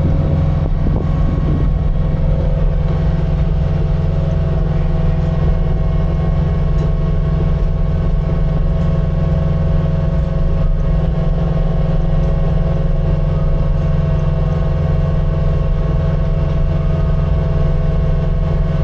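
Skid steer's diesel engine running steadily at a constant speed while it works, a loud even drone with a steady hum of tones above it and no change in pitch.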